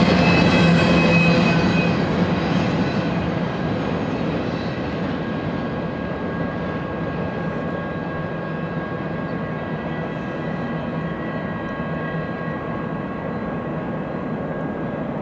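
Double-stack intermodal freight train's last cars rolling past on the rails, the wheel and rail noise fading over the first few seconds as the train pulls away, then a steady distant rumble with faint steady high ringing tones.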